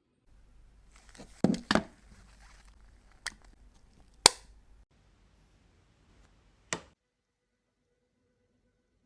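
Small cosmetic cases being handled: five sharp clicks and taps, a quick pair about a second and a half in, the loudest about four seconds in, with faint rustling between.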